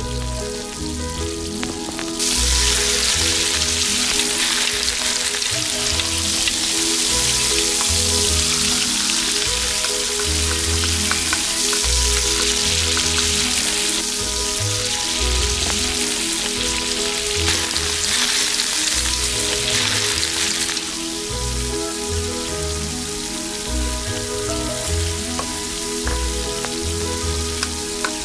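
Chopped ingredients frying in hot oil in a small stainless steel pot: a loud, even sizzle that starts suddenly about two seconds in and eases to a quieter sizzle about three quarters of the way through. Light background music with a steady beat plays underneath.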